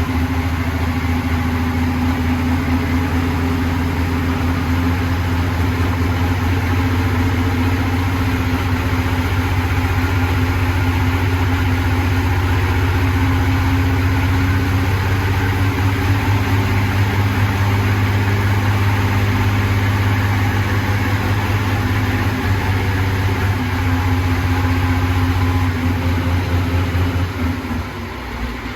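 Turbocharged diesel pulling-tractor engine idling steadily, run up to check that it still sounds good after repairs to its fuel and turbo systems; its note dips slightly near the end.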